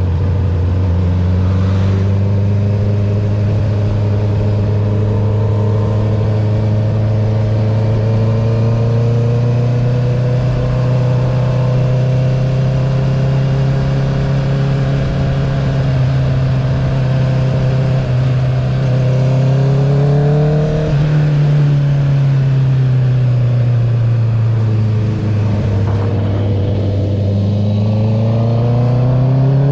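2021 Honda CB650R's inline-four engine through an Akrapovic full titanium racing exhaust with the dB killer removed, ridden at a steady pace. It revs up briefly about twenty seconds in, eases off, and accelerates again near the end.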